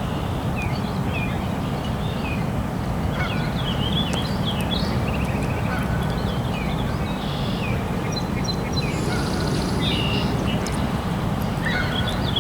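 Birds chirping, many short calls that bend up and down in pitch, repeating throughout over a steady low rumble.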